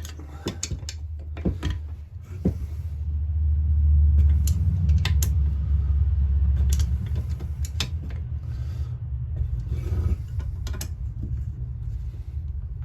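Clicks, knocks and scrapes of a hand tool working the bolts on a chainsaw's crankcase, over a steady low rumble that swells about four seconds in.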